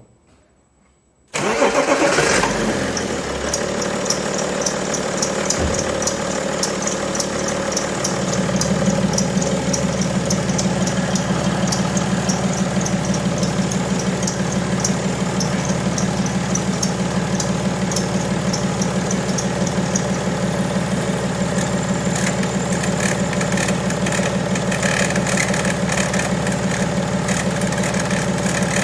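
BMW M57 straight-six diesel cranks and starts about a second in, then idles. Over the idle the accessory belt chirps in a fast, even series of high squeaks, the belt slipping on its pulleys. The chirps fade out after about twenty seconds, as they do when the belt is wetted, and a rougher, different noise takes their place, which the mechanic puts down to the belt tensioner bouncing.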